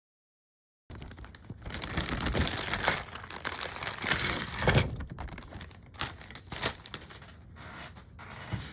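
Handling noise: a run of small clicks, rattles and rustling that starts about a second in, busiest over the next few seconds, then thins to scattered clicks.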